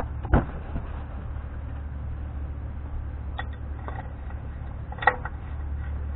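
Two sharp metal clicks in quick succession as the outer lock nut on a Dana 44 front wheel hub is tightened, then a few lighter ringing metallic clinks from the tools and hub parts, over a steady low hum.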